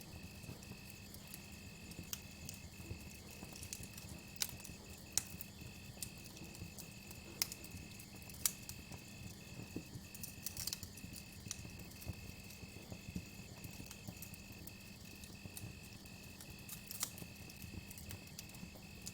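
Campfire crackling, with irregular sharp pops and snaps, the strongest a few seconds in. Beneath it runs a steady high cricket trill with brief regular breaks, and a low steady hum.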